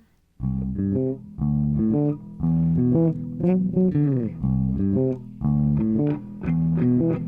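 A live band starts a song about half a second in, electric guitar and bass guitar leading with plucked notes in a repeating pattern, some of them bent in pitch.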